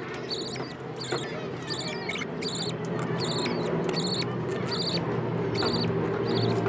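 Baby birds cheeping: short, high, squeaky calls repeating about twice a second, over a low steady hum.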